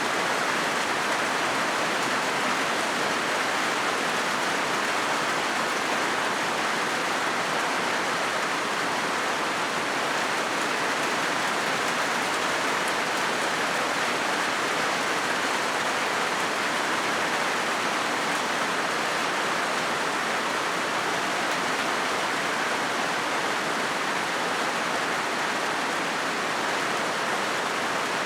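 Steady rain on a corrugated zinc sheet roof, an even, unbroken hiss of drops on metal at constant strength.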